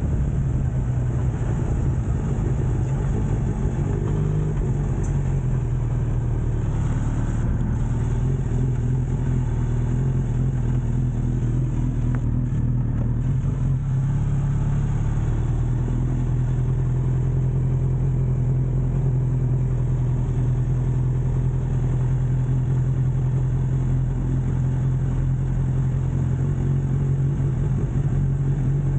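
Suzuki Katana motorcycle engine running at a steady cruise while riding, a constant drone that holds the same pitch and level.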